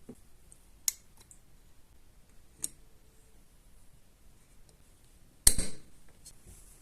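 Two short sharp clicks, then a louder knock about five and a half seconds in.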